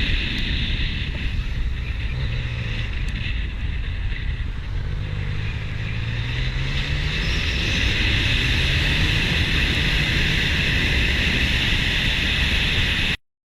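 Motorcycle riding at speed: wind buffeting the microphone over the drone of the engine, whose pitch rises steadily about halfway through as it accelerates. The sound cuts off abruptly near the end.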